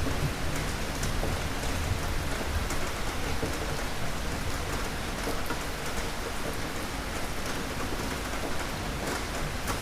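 Steady heavy rain falling, a dense even hiss, with a low rumble of thunder dying away in the first couple of seconds.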